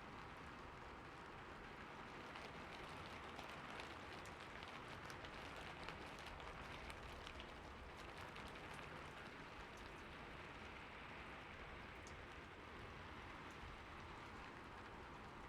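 Steady soft rainfall with many small scattered drop ticks, a gentle even hiss of rain in a forest.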